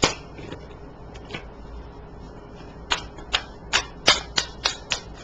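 Tarot cards being handled on a table: one sharp click, then about two seconds of quick sharp taps and snaps, roughly four a second.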